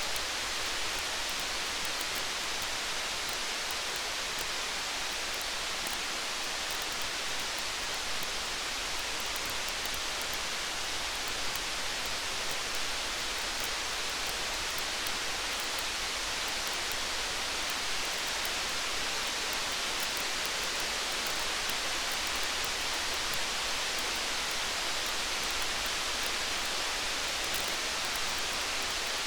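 Steady rain falling, an even hiss with faint, scattered high ticks.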